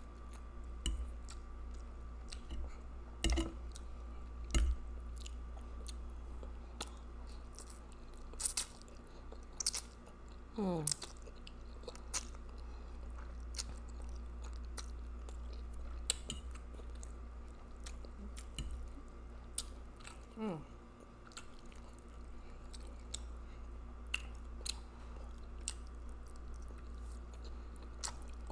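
Close-up wet chewing and slurping of spaghetti in meat sauce, with many small mouth clicks. Two short falling-pitch sounds come about a third of the way in and again past the middle.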